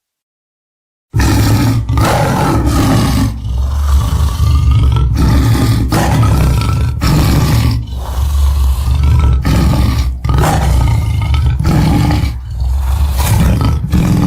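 Dinosaur roar sound effect for an Acrocanthosaurus: a run of deep, loud roars starting about a second in, with short breaks between them.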